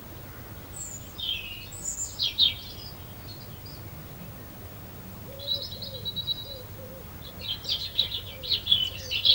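Small garden birds chirping and calling: a few high chirps, then a short trill, then a quick run of chirps near the end. A faint low cooing runs underneath in the second half.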